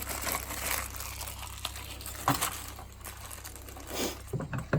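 Packaging rustling and crinkling as the new snap ring is dug out of the ball joint's box, with a sharp click about halfway through and a few more near the end.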